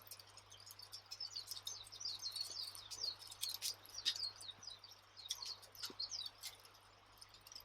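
Crackling campfire: irregular sharp pops and snaps, thickening into a dense run of high crackles from about two to five seconds in.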